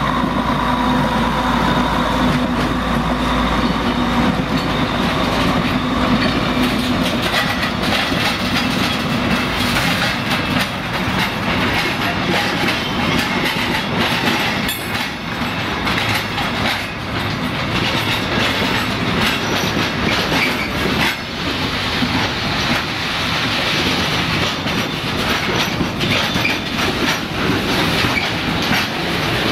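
Two diesel locomotives, one an ex-DB V100, pass at close range with their engines running, and a steady hum fades over the first few seconds. Loaded container wagons follow, rolling past with a continuous clatter of wheels over the rail joints and some wheel squeal.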